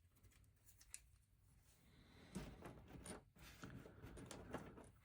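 Faint rustling and light clicking of hands handling small plastic LEGO pieces: quiet at first with a single tick, then a couple of seconds of irregular rustles and clicks from about halfway through.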